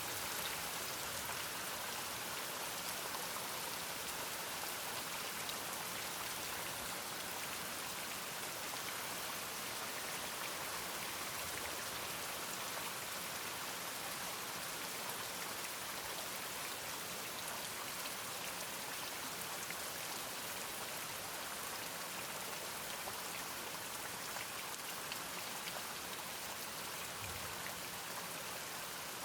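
Steady rain falling, an even hiss with fine pattering of drops.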